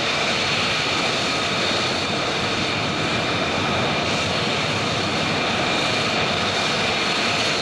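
Military fighter jet engine running steadily: a broad, even rush with a steady high whine over it.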